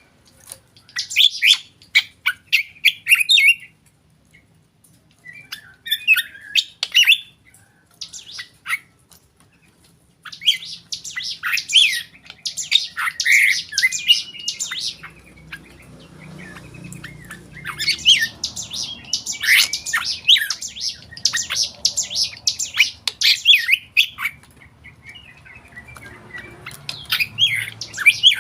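Black drongo singing its varied song: runs of rapid, sharp chirps and whistled notes in phrases of a few seconds, with short pauses between them.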